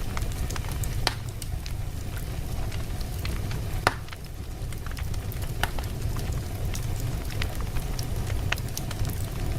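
Wood logs burning in a fireplace: a steady low rumble of the flames with irregular sharp crackles and pops, the loudest a few seconds in.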